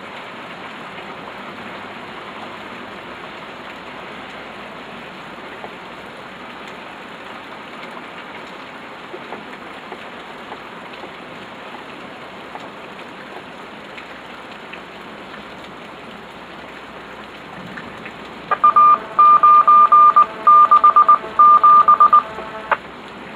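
Steady rain hiss. About eighteen seconds in, a loud electronic alert tone from the radio scanner beeps in a quick on-off pattern for about four seconds, then stops suddenly.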